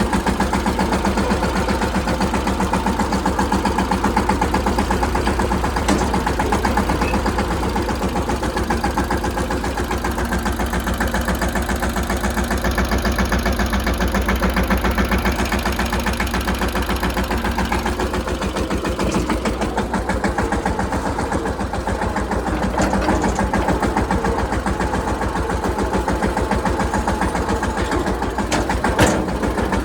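Mahindra Yuvraj 215 tractor's single-cylinder diesel engine running steadily with an even, rapid beat. A single sharp click comes near the end.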